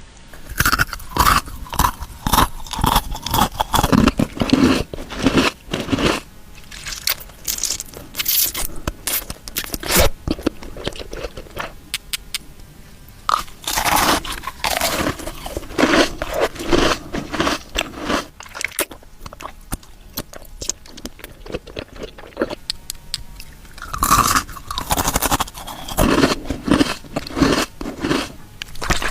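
Close, crunchy chewing and biting in bouts, with short pauses between them.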